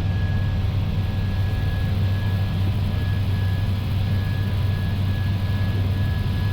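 Steady flight-deck noise of an Airbus A320 climbing after takeoff: engine and airflow drone with a strong low hum and a thin, steady high tone over it.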